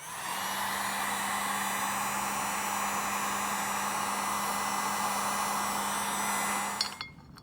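Electric heat gun blowing steadily with a motor hum for about seven seconds, then switched off, heating the power steering pump pulley so it can be pressed onto the shaft.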